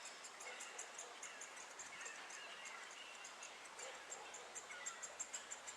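Great spotted woodpecker nestling begging: a steady run of short high-pitched calls, about six a second, with fainter songbird calls behind.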